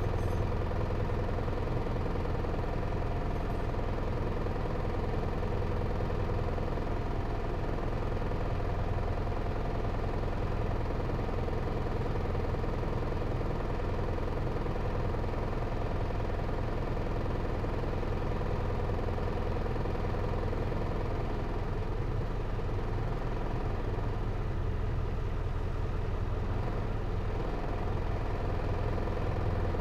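Hino Liesse RX4JFEA microbus's J05C four-cylinder diesel engine idling steadily, heard from inside the cabin.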